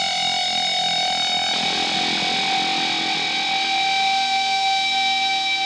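Electric guitar chord ringing out through an XVive MaxVerb reverb pedal, held steadily with no new notes struck.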